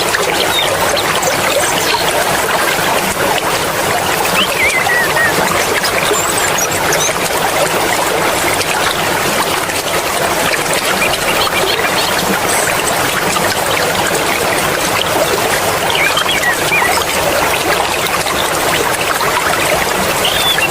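Mountain stream water flowing and splashing steadily, with a few faint, short high whistling notes over it.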